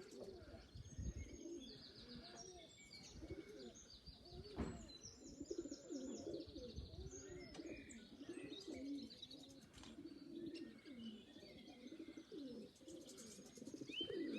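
Domestic pigeons cooing over and over, many short low calls overlapping, with thin high chirps over them.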